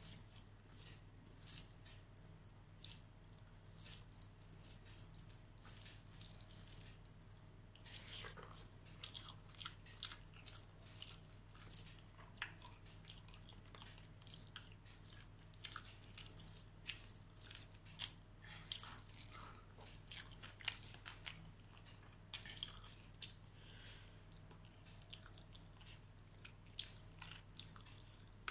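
Faint close-up eating sounds of rice and chicken curry eaten by hand: chewing, with many short, irregular wet clicks and smacks.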